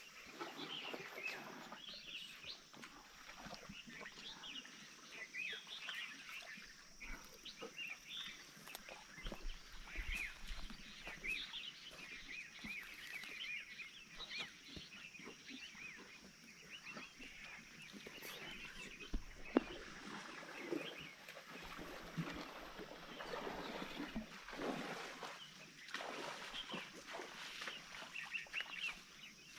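Woodland birds chirping and calling, many short calls overlapping, over a steady high hiss.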